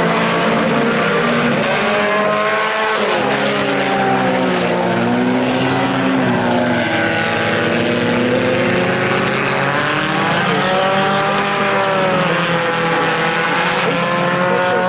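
Several IMCA Sport Compact race cars running in a pack, their front-wheel-drive four-cylinder engines overlapping, each note rising and falling as the cars accelerate and back off around the track.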